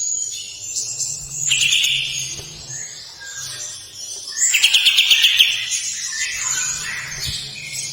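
Kapas tembak bulbul singing a long run of chirping phrases, with a harsh, rapidly pulsed rasping rattle about halfway through.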